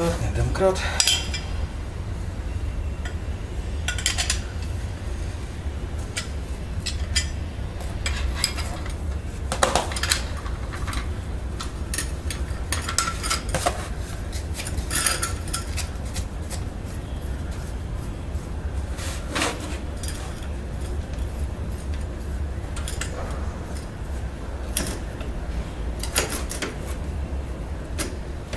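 Irregular metallic clinks and clanks of a car's factory jack and its handle being set up and worked, over a steady low rumble.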